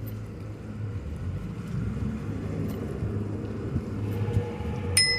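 Steady low rumble of riding along, with a single bicycle bell ding near the end that rings on briefly.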